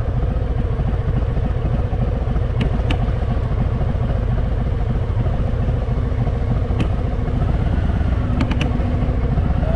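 Harley-Davidson Fat Boy's V-twin engine running steadily at low speed through a tight hairpin, with a few faint clicks.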